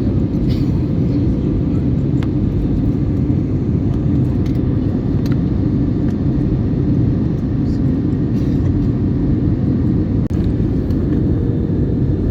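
Steady, even low rumble of an Airbus A321neo airliner heard from the passenger cabin: engine and airflow noise, with a faint steady hum and a few faint ticks.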